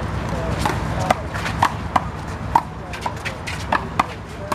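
Handball rally: a rubber one-wall handball (the big blue ball) slapped by hand and smacking off the wall and the court, sharp cracks about every half second.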